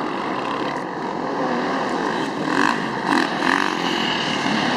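Racing dirt bike engines running on the track, a steady drone that swells a few times in the middle.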